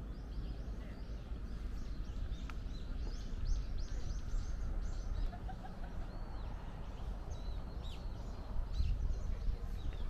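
Small birds chirping and calling, many short high notes scattered throughout, over a steady low rumble.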